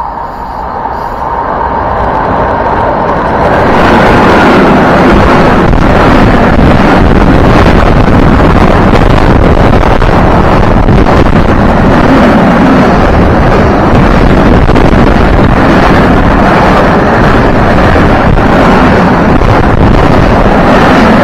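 Freight train passing through the station at speed on the track beside the platform. The rumble and rush of wheels on rail builds over the first few seconds as the locomotive approaches, then stays loud and steady as the wagons go by, with the air they push buffeting the microphone.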